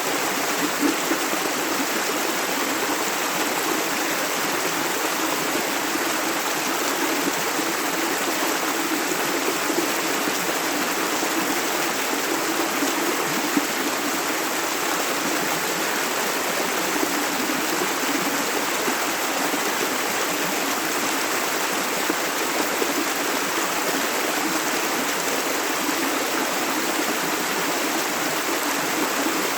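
Shallow river water running and burbling steadily over stones.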